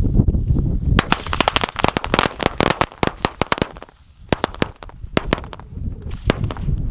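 A pile of small palomita firecrackers going off: a dense, rapid string of sharp bangs starting about a second in for roughly three seconds, then thinning to scattered single bangs near the end.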